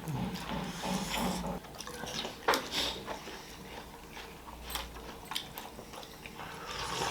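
Someone eating: chewing with soft wet mouth clicks and smacks, and one sharper click about two and a half seconds in.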